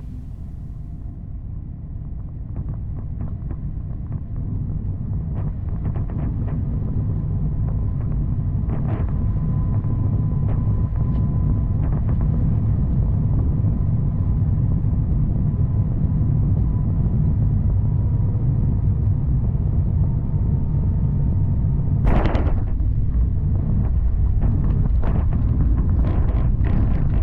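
Airliner cabin noise aboard an Airbus A350-900: a steady low rumble of engines and airflow that grows louder over the first several seconds and then holds, with scattered small rattles and one sharp knock late on.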